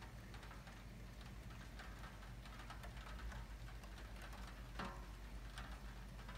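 Light rain: scattered raindrops tapping irregularly, faint, with a slightly louder tap about five seconds in.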